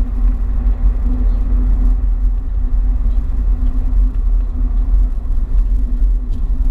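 Car driving, a steady low road rumble with a constant drone underneath.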